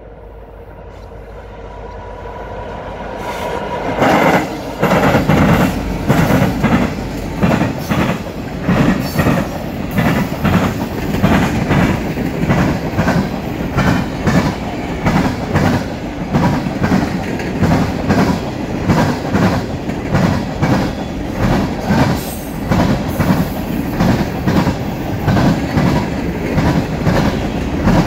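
Freight train led by two Union Pacific diesel locomotives, growing louder as they approach and coming level about four seconds in. Then a long string of refrigerated boxcars rolls past with a steady rumble and evenly repeated wheel clicks over the rail joints.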